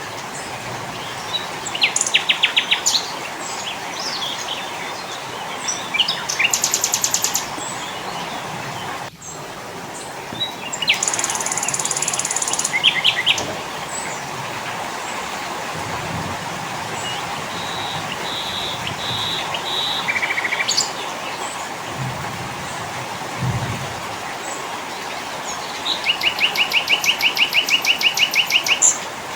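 Several small songbirds singing in turn: fast trills and chirps, a buzzy high phrase, a few short repeated whistles, and near the end a quick run of repeated notes at about six a second, all over a steady background hiss.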